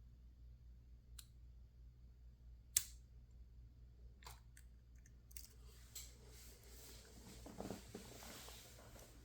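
Lock-picking tools working in a PacLock 410 Pro padlock: a few sharp separate clicks, the loudest about three seconds in, then a few seconds of rustling and shuffling as the lock and tools are handled.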